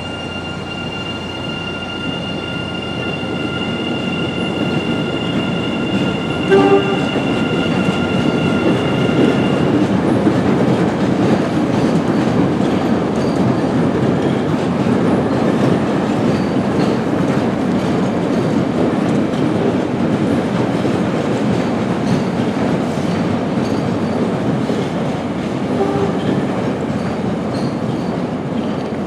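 MBTA commuter rail train running on the rails, a steady rumble of wheels and cars that grows slightly louder over the first few seconds, with a steady high whine for about the first ten seconds. Two brief pitched toots sound about seven seconds in and near the end.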